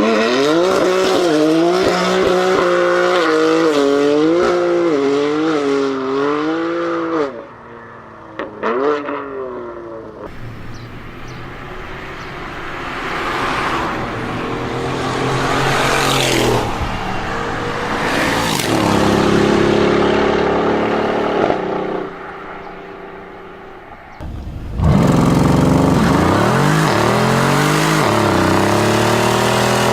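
Car engines revving and accelerating in a string of separate clips: the engine note climbs and falls again and again, a quieter, noisier stretch follows in the middle, and a loud rev with a rising and falling pitch comes near the end.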